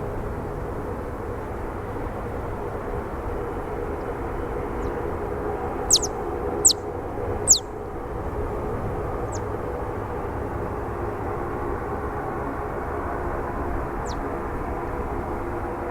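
Airliner engines running steadily nearby at the airport, slowly swelling. Several quick, high, falling bird chirps cut through, the three loudest in a row about six to seven and a half seconds in.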